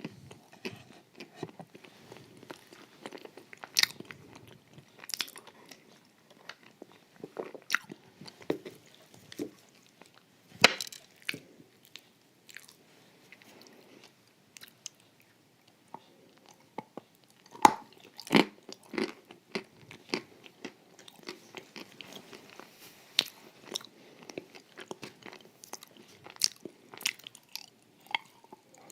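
Close-miked biting and chewing of a creamy, crunchy wafer dessert, with irregular crisp crunches and wet mouth sounds. A cluster of the loudest crunches comes a little past the middle.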